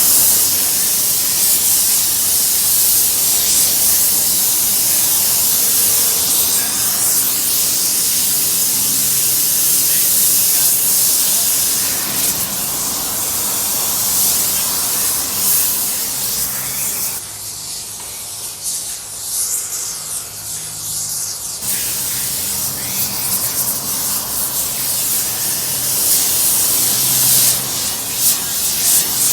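Steady loud hissing with a faint low hum underneath, breaking off for about four seconds a little past halfway, then starting again.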